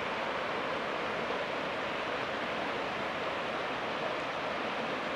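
Mountain stream rushing steadily, an even hiss of running water with no single splashes.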